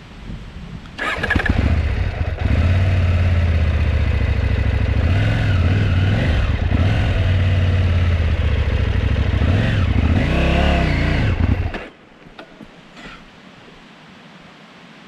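KTM 790 Adventure R's parallel-twin engine starting about a second in and running unevenly, its pitch dipping and picking up twice, then cutting out abruptly near the end. The bike was stalling and hesitating, a fault the owner later traced to a failed immobiliser.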